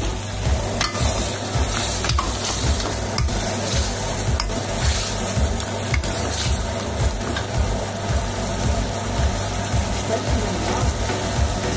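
Crab masala sizzling and bubbling in a wok, with a steel ladle stirring it and scraping lightly against the pan. A steady low rumble runs underneath.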